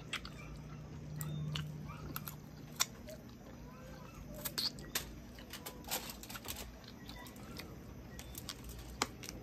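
Chewing and biting into crispy fried chicken wings, with many scattered short sharp clicks and crunches of teeth and mouth.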